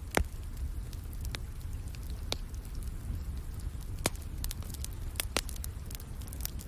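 Wood fire crackling in a fireplace: scattered sharp pops and snaps, the loudest just after the start, over a steady low rumble, blended with a soft rain ambience.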